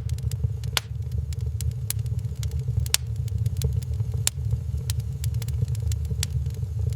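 Wood fire burning in a fireplace, with sharp irregular crackles and pops, several a second, over a steady low rumble.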